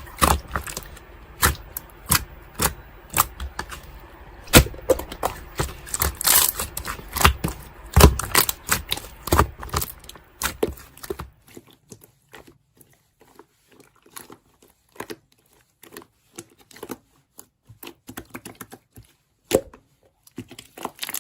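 Slime being squeezed and pressed by hand, making irregular sharp clicks and pops. The popping is dense and loud for about the first eleven seconds, then turns sparser and quieter.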